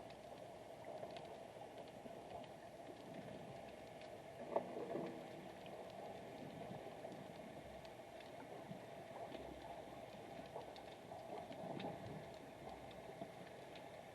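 Underwater ambience picked up by a submerged camera: a faint, steady, muffled water hiss with scattered light clicks, and a soft knock about four and a half seconds in.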